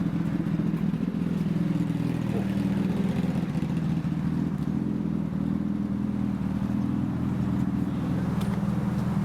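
A motorcycle engine idling steadily, a low, even running note with a fine regular pulse.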